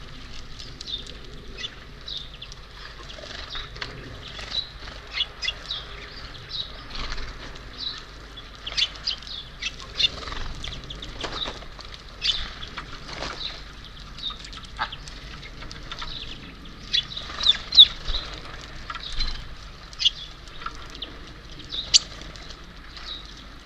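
Small birds at a feeder: many short, high chirps scattered throughout, mixed with brief clicks and wing flutters.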